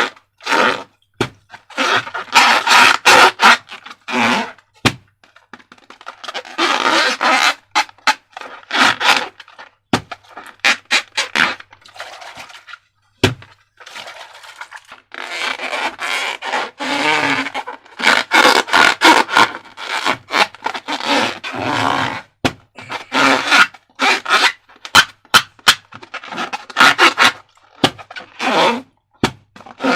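Slime being squished and worked by hand: wet scraping and squelching, full of many sharp clicks and crackles.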